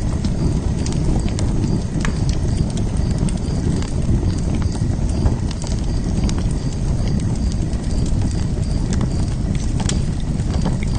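Open fire burning: a steady low rumble of flames with scattered sharp crackles and pops at irregular intervals.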